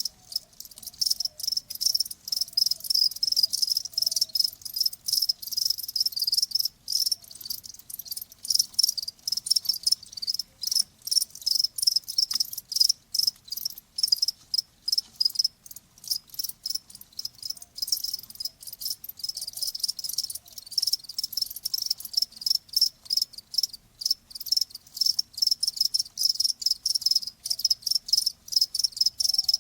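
Crickets chirping in a continuous stream of rapid, high-pitched pulses.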